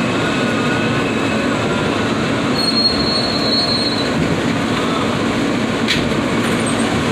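New York City subway F train running on the track, heard from aboard the car: a steady rumble of wheels on rail with thin, high wheel squeals, the highest about three seconds in, and one sharp click near the end.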